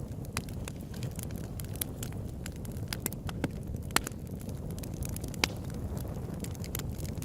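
Campfire crackling: frequent sharp pops and snaps of burning wood over a low steady rumble, with two louder pops about four seconds and five and a half seconds in.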